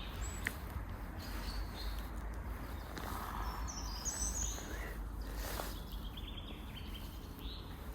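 Forest ambience: a few scattered songbird chirps and a short trill over a steady low rumble.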